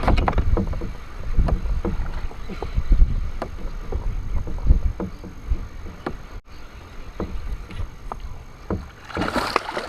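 Knocks and bumps on a kayak over a low rumble, as gear is handled aboard, with a short splash of water near the end.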